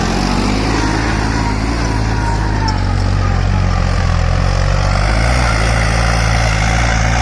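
Farmtrac 60 PowerMax tractor's diesel engine, fitted with an aftermarket turbo and turned-up fuel, running hard and steady under load.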